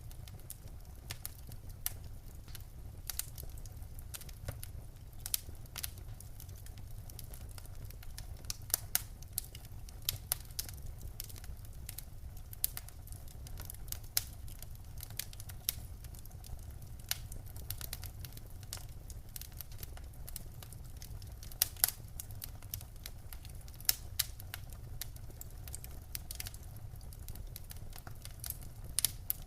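Wood fire crackling in a fireplace: irregular sharp pops and snaps, some much louder than the rest, over a steady low rumble.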